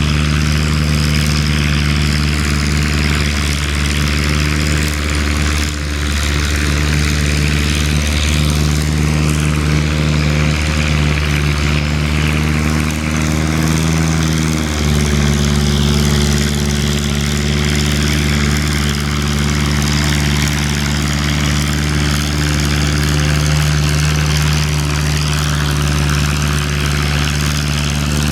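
Antique farm tractor engine running steadily and loudly. Its pitch climbs slightly and then drops about halfway through.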